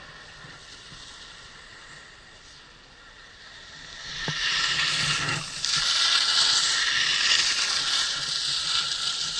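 Faint steady background noise, then about four seconds in skis start sliding and scraping over the snow as a loud, steady hiss, with a single click just before it.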